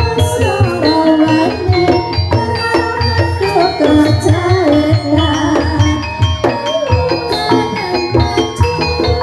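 Javanese gamelan music accompanying an ebeg horse-dance: hand-drum strokes under ringing metallophone notes, with a singing voice over the top.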